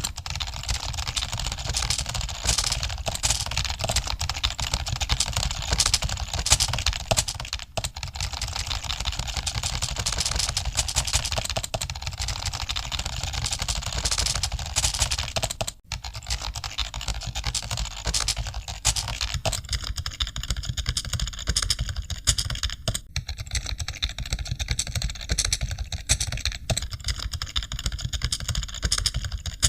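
Many computer keyboards typed on at once, as in an exam hall during a typing test: a dense, continuous clatter of keystrokes over a steady low rumble, with brief lulls about 8 and 16 seconds in.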